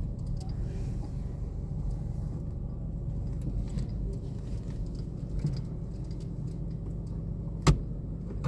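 Steady low rumble of a vehicle, with a single sharp click near the end.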